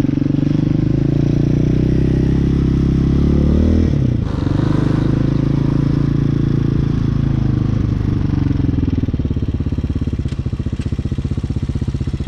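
Hawk 250 dirt bike's single-cylinder four-stroke engine under way, rising in pitch as the bike accelerates, dropping sharply at a gear change about four seconds in, then pulling up again before winding down as the bike slows near the end.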